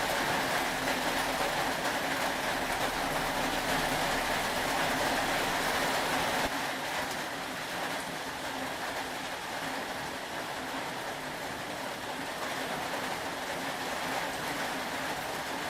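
Steady rain, an even hiss of falling rain, with the level dropping slightly and suddenly about six and a half seconds in.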